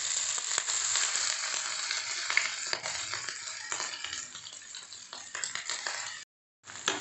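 Small pieces of cornflour-coated, pre-cooked beef sizzling and crackling in hot sunflower oil in a nonstick frying pan, with a spoon stirring them near the end. The sizzle eases off gradually and cuts out for a moment just before the end.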